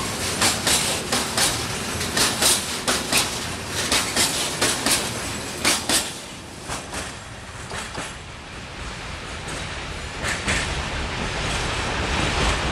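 Railway wagons rolling past close by, their wheels clicking rapidly over the rail joints in a clickety-clack. The clicks thin out and stop about halfway through as the end of the train goes by, leaving a quieter rushing rumble that grows a little louder near the end.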